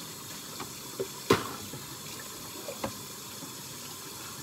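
Kitchen tap running into a sink while dishes are washed by hand, with dishes knocking and clinking against each other a few times, the loudest clatter about a second and a half in.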